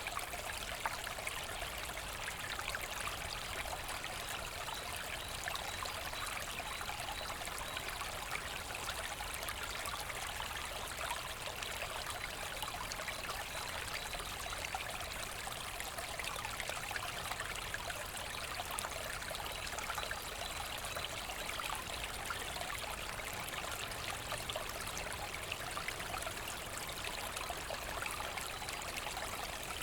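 A small forest brook running and babbling over stones, a steady, even rush of water with fine splashy trickling.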